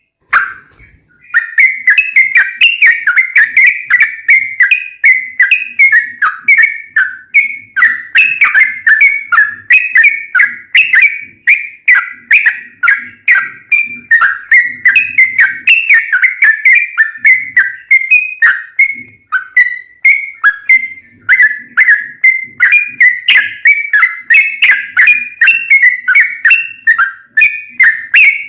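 Yellow-vented bulbul (trucuk) singing a long, fast, continuous chattering song of bubbling notes, strung together with hardly a pause. It is a lure recording meant to set other bulbuls singing in reply.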